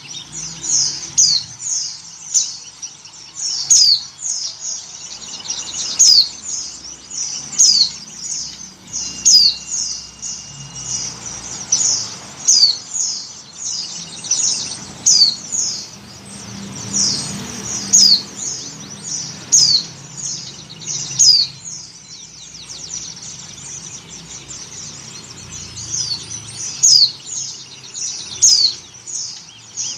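White-eyes (pleci) calling: many short, high chirps that slide downward, several a second, some overlapping. The recording is offered as a female in breeding condition calling to males.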